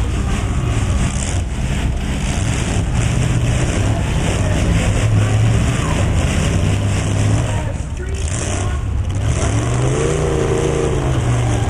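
Truck engine running steadily, then revving up and back down once near the end, with voices in the background.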